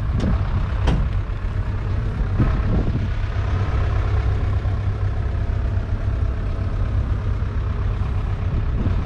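1976 UTB Universal 550 Super DTC tractor's 3.1-litre four-cylinder diesel engine idling steadily.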